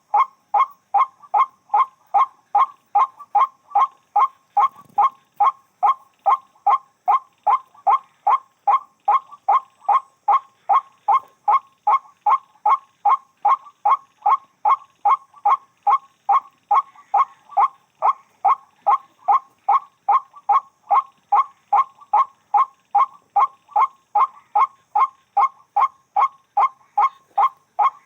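White-breasted waterhen (burung wak-wak) calling, a single short 'wak' note repeated over and over at a very even pace of about two and a half notes a second.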